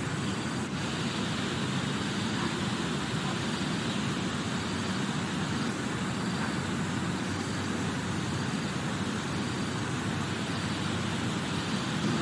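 Heavy rain falling steadily, an even, unbroken noise with a low rumble beneath it.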